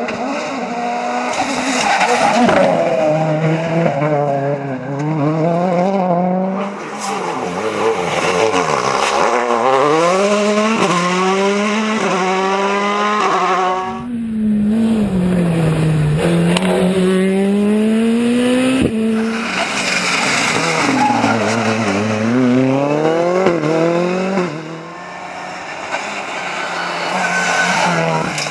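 Rally cars at full throttle passing one after another in several edited shots. The engines rise in pitch through each gear and drop back at every shift, over and over.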